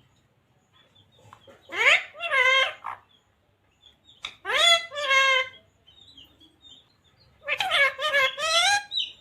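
Parrot calling three times, each call a short run of wavering, speech-like notes with gaps of silence between.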